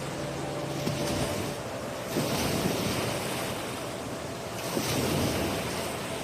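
Waves from a wave pool washing and breaking onto a sandy shore: a steady rush of water that swells three times.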